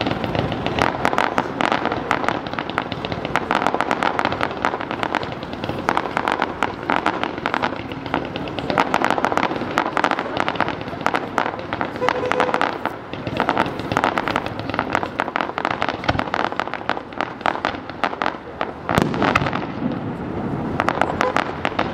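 Fireworks display going off continuously: a dense run of rapid pops and bangs that keeps up without a break.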